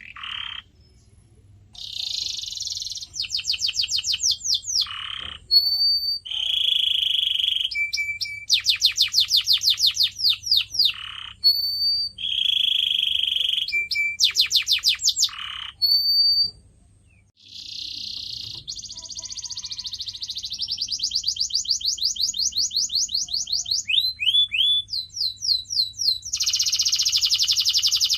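Canary singing a long song of rapid trills of quick repeated notes, buzzy rolls and short clear whistles, broken by brief pauses about a second in and again around the middle.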